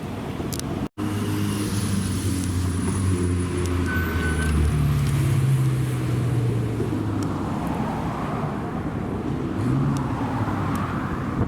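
Supercar engine running with a deep, low note that rises in pitch about four to five seconds in as the car accelerates, then fades away. The sound cuts out for an instant about a second in.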